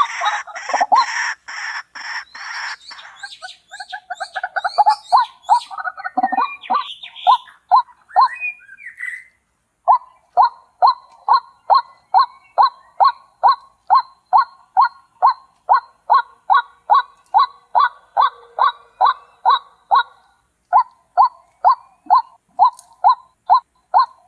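A bird calling: a dense run of overlapping calls at first, then, after a short break, the same short call repeated evenly about two to three times a second.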